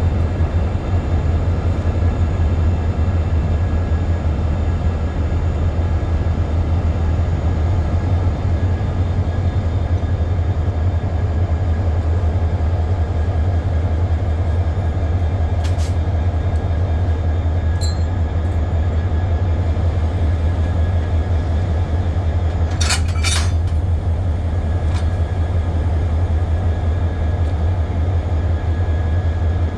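Diesel locomotive engine running with a steady low drone while hauling coaches. A few short metallic clinks cut through, including a quick double clink about 23 seconds in.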